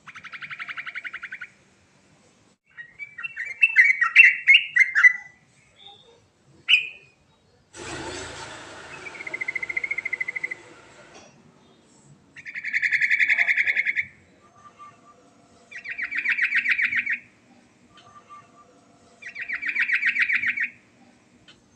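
Yellow-vented bulbul (trucukan) singing: rapid buzzy trills of about a second and a half each, repeated every few seconds, with a jumble of quicker varied notes a few seconds in. A few seconds of hiss sound partway through.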